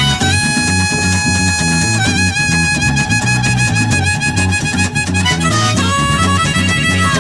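Instrumental break of a country-folk song: a lead instrument holds long high notes over a walking bass line and a steady drum beat.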